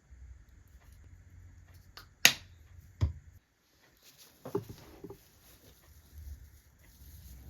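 Two sharp clicks about a second apart, followed by softer rustling and handling noise.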